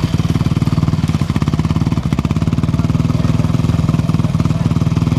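Off-road motorcycle engine running steadily at low revs, a fast, even pulsing with no rise or fall in pitch.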